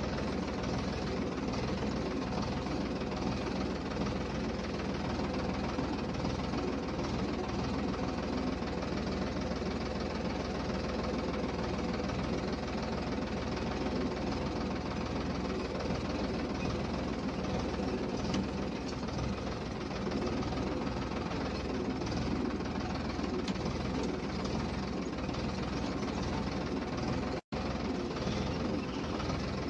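Tractor engine running steadily while ploughing a field. The sound drops out for an instant near the end.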